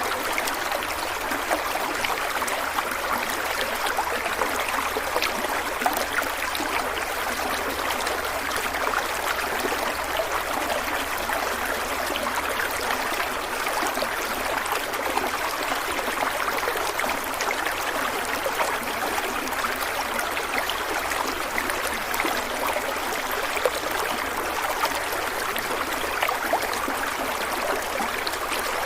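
Water running in a stream: a steady, even rush that goes on without pause.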